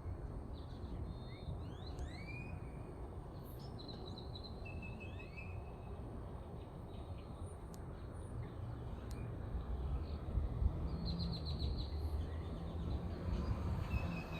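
Wind rumbling on the microphone, stronger in the second half, with small birds chirping throughout in short rising and falling calls and a few quick trills.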